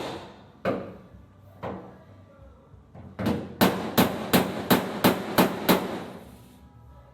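Hammer and dolly striking a welded steel patch on a car's quarter panel, each blow ringing briefly in the sheet metal. Two single blows about a second apart are followed by a quick run of about eight blows, then the ring fades.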